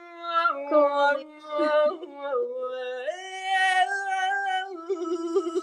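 A solo voice singing a slow, sad song unaccompanied, holding long notes that step down and back up in pitch, with a wavering note near the end before it stops.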